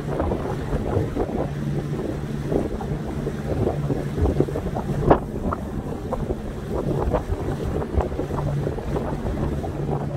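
Small boat under way: a steady low engine hum, with water splashing and wind buffeting the microphone.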